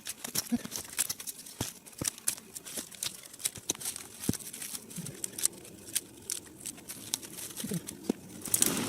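Dry twigs and small branches being handled and snapped for kindling: a run of irregular small cracks and crackles with rustling in between.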